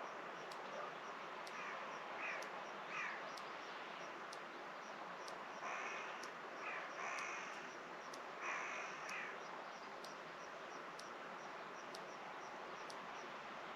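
Crows cawing in short, harsh calls: three within the first three seconds, then a run of several more between about six and nine seconds in, over a steady outdoor hiss.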